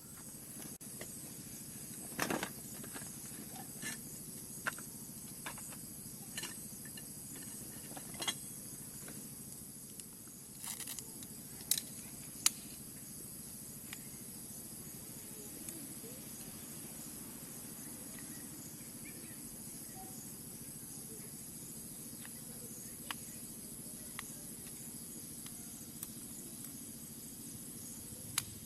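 Faint, steady high-pitched insect chorus, with scattered short clicks and taps now and then, a small cluster of them about ten to thirteen seconds in.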